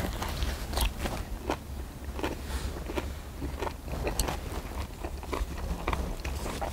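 Close-miked chewing of spicy marinated pork, with wet mouth clicks and smacks about twice a second over a low steady rumble.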